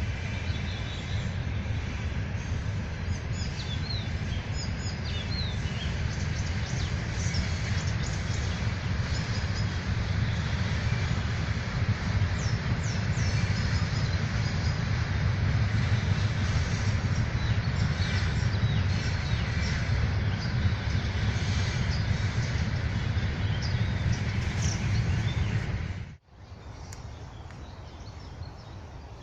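Songbirds chirping and singing over a steady low rumble. About 26 seconds in, the rumble cuts off abruptly, leaving quieter birdsong.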